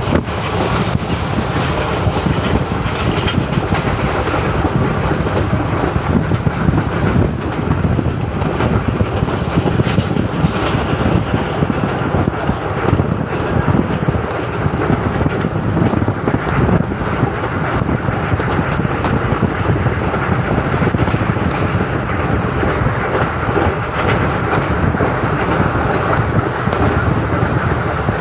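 Indian Railways express train running on the track: a steady, loud rumble and rattle of wheels over the rails.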